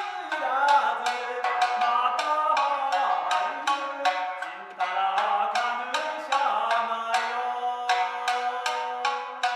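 Live traditional Japanese ensemble music: a steady beat of sharp percussive strikes, about two to three a second, under melodic lines that glide and bend in pitch.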